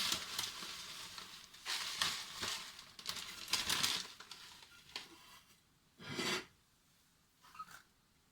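Plastic packaging crinkling and rustling as it is handled, in several bursts that die down to two short rustles in the second half.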